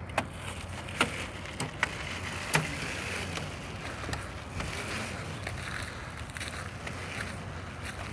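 Razor MX350 electric dirt bike running, its electric motor and chain drive giving a steady whirring buzz as it rides. Several sharp clicks or knocks come in the first two and a half seconds.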